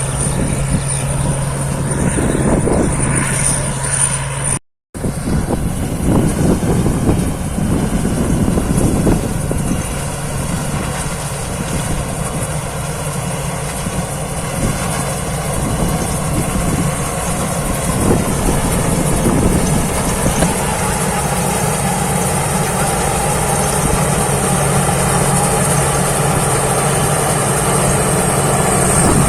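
Thai Seng rice combine harvester running steadily at work, its engine drone carrying a steady high whine; the sound drops out for an instant about five seconds in.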